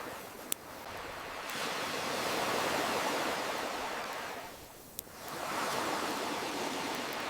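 Ocean waves surging and receding: a swell builds and crashes, ebbs away, then another surges in, with a couple of sharp pops from a crackling campfire over it.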